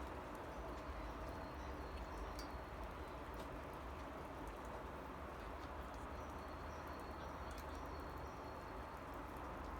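Steady hiss of light rain with scattered drop ticks and a low rumble underneath, and faint high bird calls now and then.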